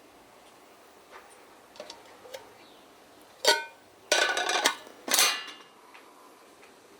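Metal camping kettle being handled: a few light clicks, then a sharp clank with a short metallic ring about halfway through, followed by a scraping rattle and a second clank.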